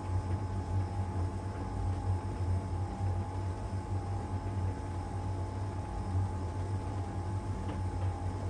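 LG heat pump dryer running in its drying phase: a steady low hum with the drum tumbling, and a faint steady high tone above it.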